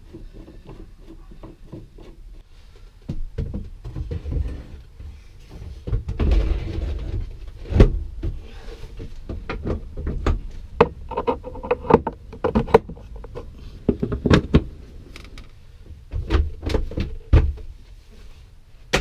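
Irregular knocks, clunks and scrapes of hands working with metal parts and tools, several heavy thuds among them: the stern gland greaser being finished off and things put away.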